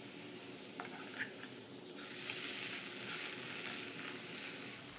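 Rice-flour flatbread sizzling in oil in a hot nonstick frying pan, with a couple of light spatula clicks; about two seconds in the sizzle turns suddenly louder as the bread is turned over onto the oiled pan and pressed down with a spatula.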